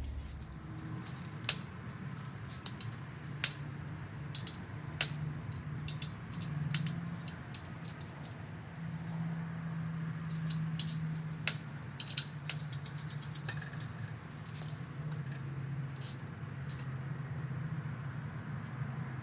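Irregular metal clicks and clinks of hand tools working on engine parts during a teardown, with a quick cluster of clicks a little past the middle, over a steady low hum.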